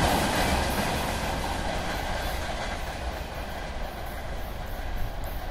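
Freight train of open wagons rolling away along the track, the rumble of its wheels on the rails fading steadily as it goes.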